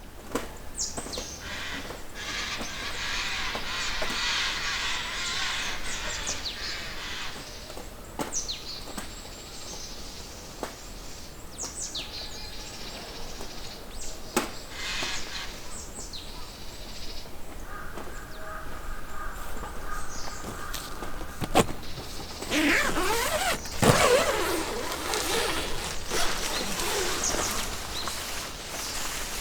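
Wood campfire crackling with scattered sharp pops and stretches of hissing.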